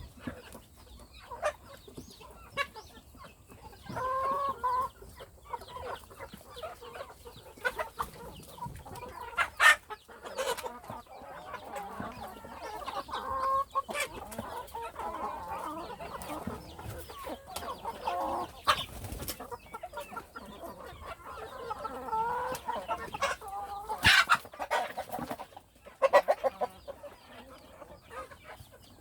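Hens clucking on and off in short pitched calls, with sharp taps and clicks scattered throughout.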